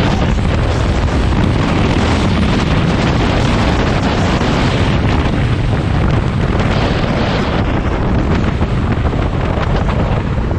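Loud, steady wind buffeting the microphone, heaviest in the low end.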